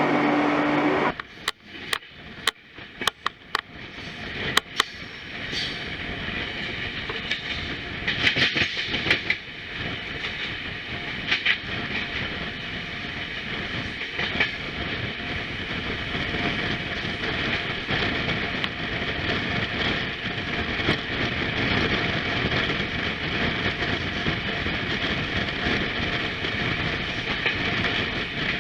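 Passenger train running on the track, its wheels clicking sharply over rail joints and then settling into a steady rumble and hiss that builds over the first several seconds. A low steady hum cuts off about a second in.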